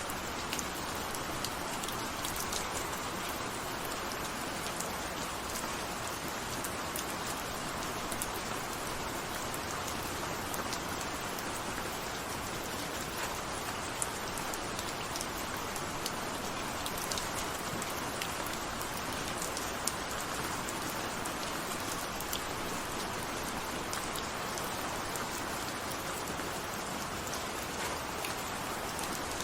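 Steady rain falling, an even wash of noise with scattered sharp drop ticks.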